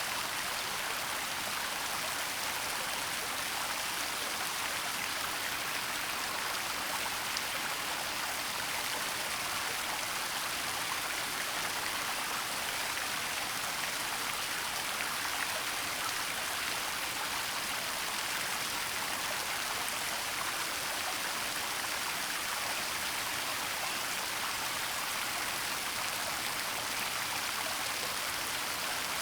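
Waterfall in a forest: steady rushing and splashing of falling water, even and unbroken, with a hissy, bright tone.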